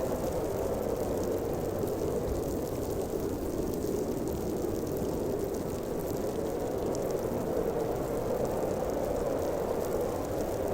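Blizzard wind howling steadily, a constant deep rushing noise with no breaks or sharp gusts.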